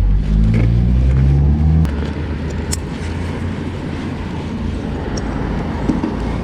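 Honda CB500X parallel-twin motorcycle engine accelerating, its note rising for about two seconds, then dropping at a gear change and running steadily with wind rush.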